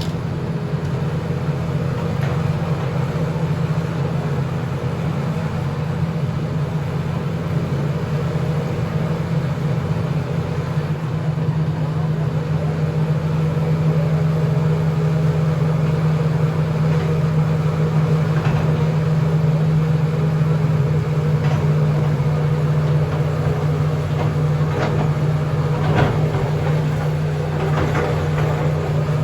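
John Deere backhoe's diesel engine running at a steady speed, with a few sharp knocks and clanks in the second half.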